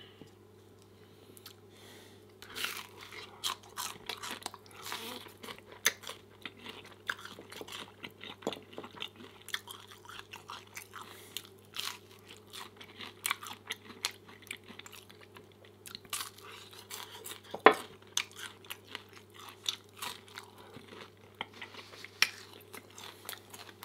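Close-miked chewing of breakfast food, with wet mouth clicks and smacks in an irregular stream that starts about two seconds in. One sharper, louder click comes a little past the middle.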